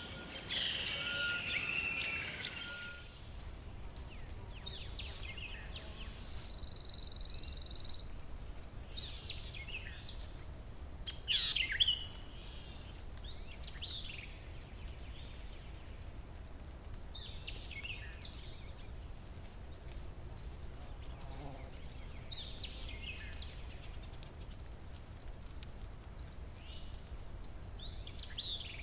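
Forest ambience: birds calling and chirping, busiest in the first few seconds, then short calls every few seconds. Under them runs a low steady rumble and a thin, steady high-pitched tone.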